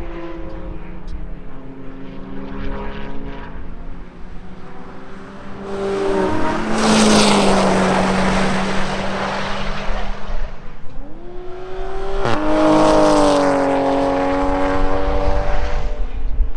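Car engines running at a race track, with steady engine tones and two loud rushing swells, about six and twelve seconds in.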